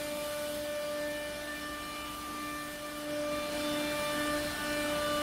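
CNC router's axis drives running with a steady whine as the machine homes its X, Y and Z axes to the origin point; the sound swells slightly about three seconds in.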